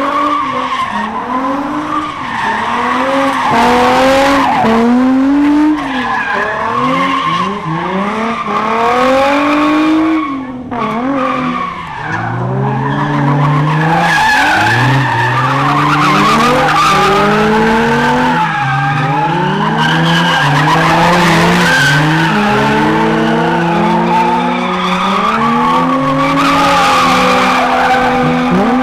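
Several high-powered muscle-car engines revving hard over and over, their notes rising and falling and overlapping, with tyres squealing and skidding as cars spin in circles.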